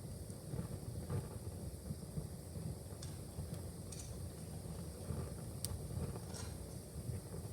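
Fire in a fireplace burning with a steady low rumble, broken by a handful of sharp pops and snaps at irregular moments.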